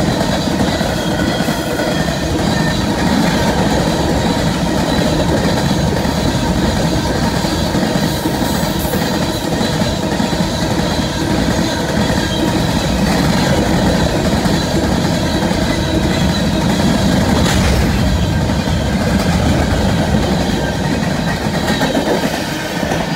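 Freight cars rolling past close by: a steady rumble and clatter of steel wheels on the rails.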